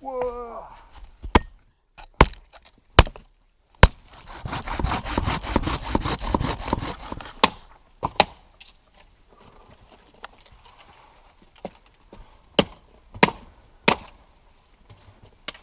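Dry wood cracking and snapping: a few sharp single cracks, then about three seconds of dense, fast crackling, then more sharp knocks spaced well apart.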